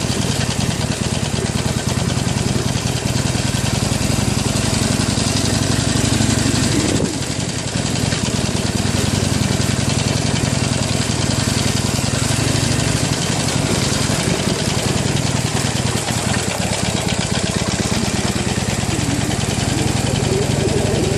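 Harley-Davidson Iron 883's air-cooled V-twin engine running steadily at low revs, with a steady hiss over it and a brief dip in engine sound about seven seconds in.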